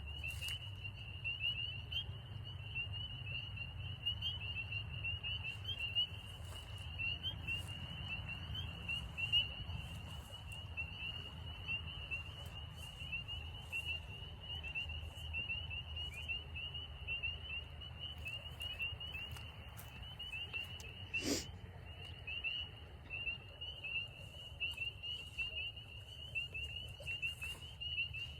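A dense chorus of spring peepers calling, a continuous mass of high-pitched peeps, with a low rumble underneath and one brief sharper sound a little past the middle.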